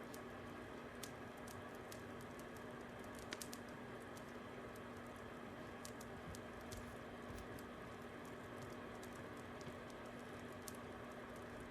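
Fire crackling: a steady hiss with irregular sharp pops and snaps, a quick cluster of them about three seconds in being the loudest.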